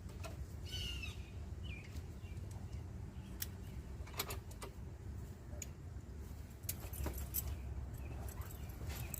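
Scattered metallic clicks and clinks of hand tools and small metal parts being handled, over a steady low rumble, with two short bird chirps about a second in.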